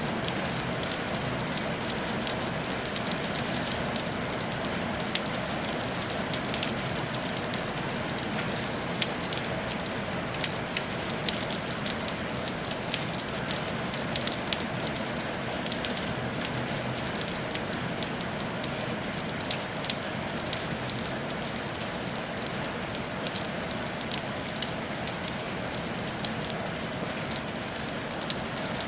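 Steady rain falling on a tile roof, a constant hiss dotted with many sharp drop ticks.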